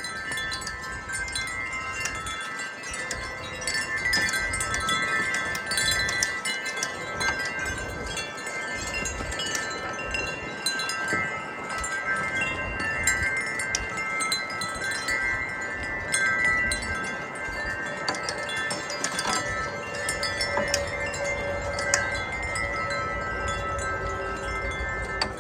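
Several wind chimes ringing continuously in gusty wind, their metal tubes struck over and over so that many overlapping tones, mostly high, sustain and blend, with a low rumble of wind underneath.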